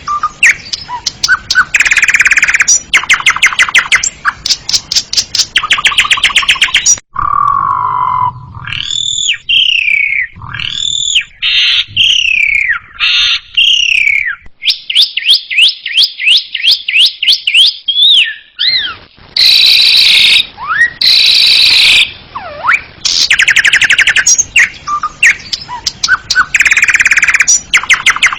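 Asian pied starling (jalak suren) singing a loud, varied song: fast rattling trills, a run of whistled notes that each slide down in pitch, and harsh chattering clicks.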